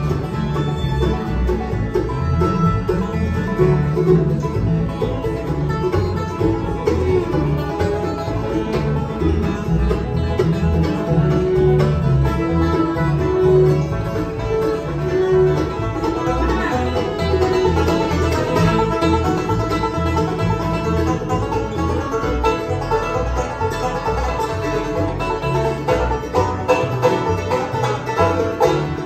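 Live acoustic bluegrass band playing an instrumental passage, a banjo picking quick rolls to the fore over strummed guitar.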